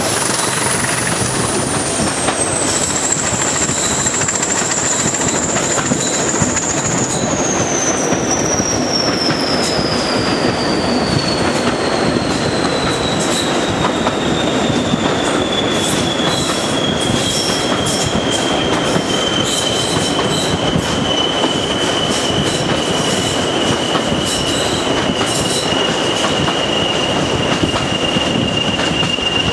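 Diesel-hauled passenger train running along the line, heard from an open carriage window: a steady rumble with scattered clicks from the rail joints, more of them in the second half. Over it a thin, high whine slowly falls in pitch.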